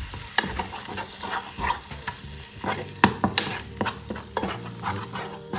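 Butter and chocolate melting in a pan, with a light sizzle, while a utensil stirs them and scrapes and clicks irregularly against the pan. The sharpest clicks come about a third of a second in and again around three seconds in.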